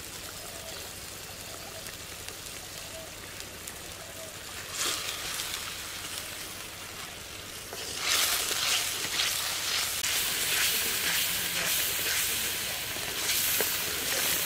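Onions, chilli powder and salt frying in hot oil in a metal wok: a steady sizzle that grows much louder about eight seconds in, as a wooden spatula stirs the spices into the oil, with scraping strokes against the pan.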